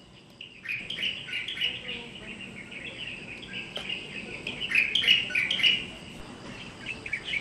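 Songbird singing a fast, jumbled run of high chirping notes that starts within the first second, pauses briefly near the end, then starts again.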